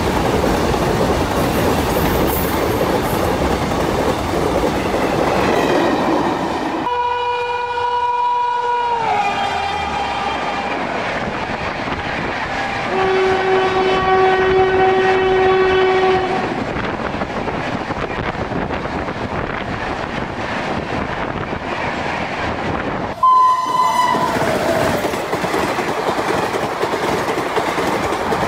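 Trains passing at speed, one after another: wheels clattering over the rail joints under a steady rush of noise. Locomotive horns sound three times: one that falls in pitch about eight seconds in, a long steady blast around the middle that is the loudest part, and a short one falling in pitch near the end.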